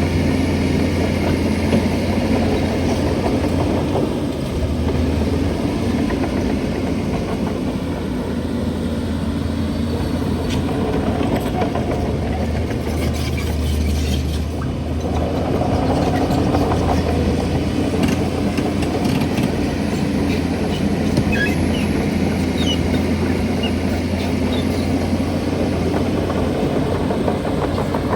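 A bulldozer's heavy diesel engine running steadily under load, with a deep drone that swells and eases.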